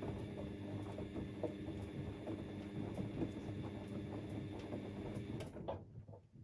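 Siemens Extraklasse XLs 140 A washing machine's drum turning through a 60°C cottons wash, with a steady motor hum and the soft sloshing and thudding of wet laundry tumbling. About five and a half seconds in the drum stops, the motor falling briefly in pitch, and it goes quiet.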